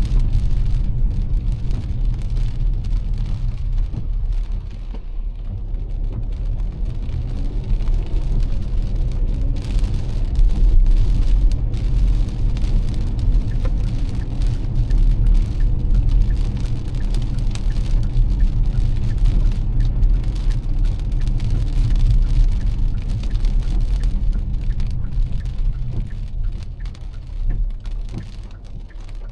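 Heavy rain pattering on a car as it drives, over the low rumble of the car's engine and tyres on the wet road. The sound eases off over the last few seconds.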